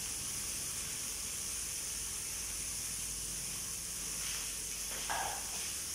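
Chicken skewers sizzling in a grill pan on the gas hob: a steady, even hiss. A short knock about five seconds in.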